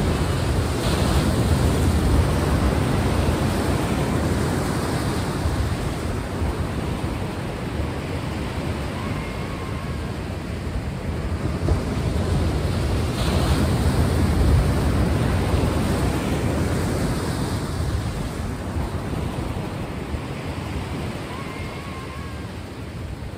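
Sea waves breaking on a shore, a steady wash of surf that swells and eases twice.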